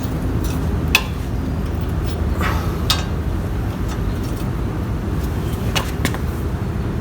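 Steady low rumble with a few sharp metallic clicks, about a second in, near three seconds and twice near six seconds. These are tools being worked on the truck's front brake caliper bracket bolts.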